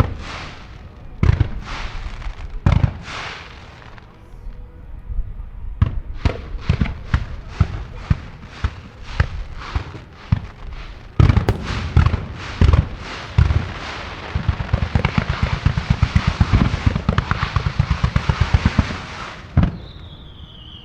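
Aerial fireworks bursting: a few separate booms, then a quick run of bangs. This builds into a dense, continuous barrage of bangs and crackle that stops abruptly a second or two before the end.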